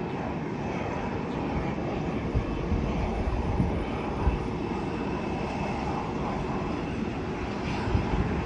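Airliner jet engines running with a steady rushing noise and a faint whine, while gusts of wind buffet the microphone.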